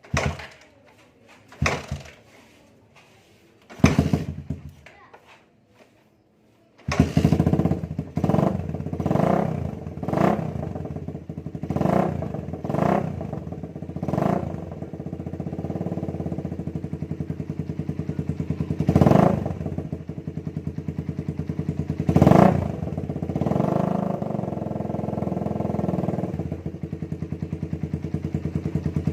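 Suzuki Satria FU's 150 cc single-cylinder four-stroke engine running through an aftermarket DBS exhaust. After a few short knocks, it starts about seven seconds in and idles with a fast, even exhaust pulse, broken by repeated short throttle blips.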